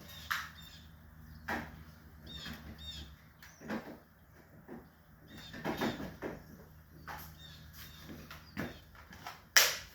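Scattered clicks and knocks of a cordless tool being handled while its battery is changed, with faint bird chirps in the background.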